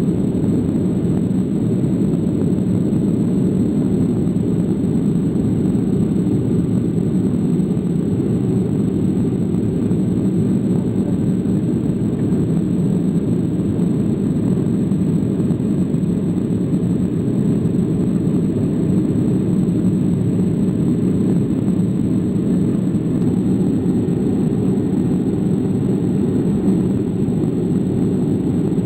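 Steady, unchanging noise of a Boeing 737 in flight, its engines and airflow making a deep even rumble.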